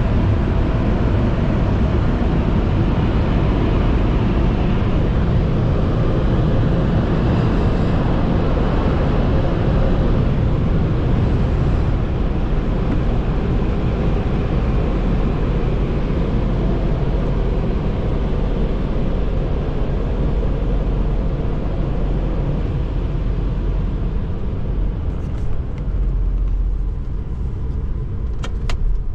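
Steady loud rush and low rumble heard from inside a car in an automatic tunnel car wash. The higher hiss fades after about twelve seconds, leaving mainly a low rumble.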